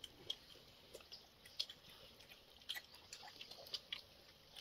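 A man chewing a mouthful of cooked rice, faint and irregular, with small wet clicks of the mouth.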